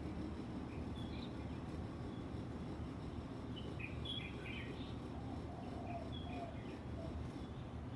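Small birds chirping faintly: scattered short high chirps, with a small cluster about four seconds in, over a steady low background hum.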